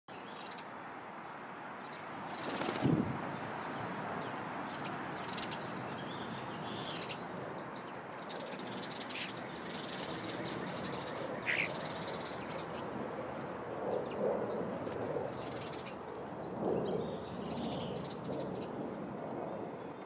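Wild birds chirping and calling in short, scattered calls over a steady outdoor background hiss, with a falling call about halfway through. A loud thump comes about three seconds in.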